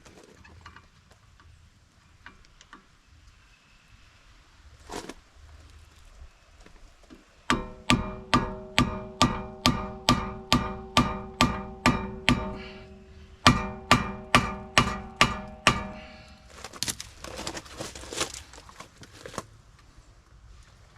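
Hammer blows on ringing steel, about two a second: a run of about a dozen, a short pause, then half a dozen more, struck to break loose a seized brake rotor and its retaining screws. A few seconds of lighter clicking and scraping follow.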